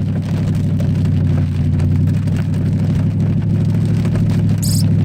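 Cadillac STS-V's supercharged 4.4-litre V8 running at a steady pitch under light throttle on a wet track, heard from inside the cabin over a hiss of tyres on wet pavement, with a brief high-pitched chirp near the end.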